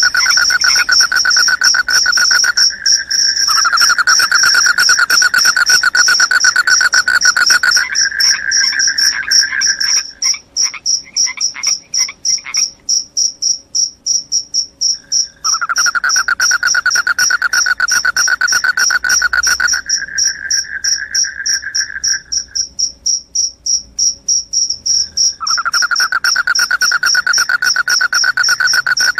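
Crickets chirping loudly: one high, fast-pulsed trill runs without a break, while a second, lower-pitched trill cuts out twice, for about five seconds from ten seconds in and for about three seconds after twenty-two seconds, then starts again.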